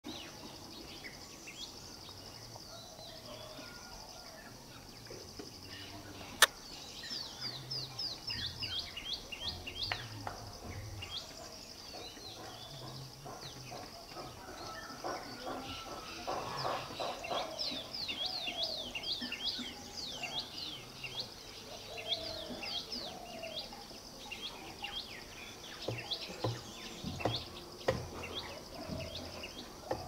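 Small birds chirping in repeated runs of quick, downward-sliding notes over a steady high insect buzz, with one sharp click about six seconds in.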